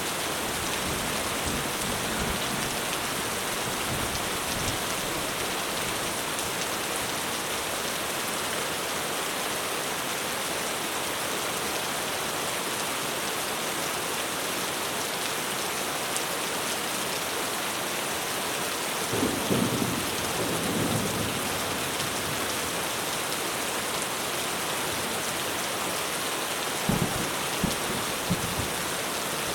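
Heavy rain pouring steadily on a roof, with rolls of thunder rumbling low about two-thirds through and again near the end.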